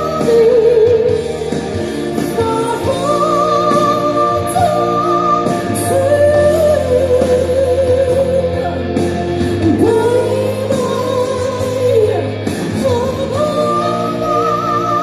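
Female singer with backing music in a slow ballad, holding long notes with a wavering vibrato and sliding between pitches rather than singing clear words.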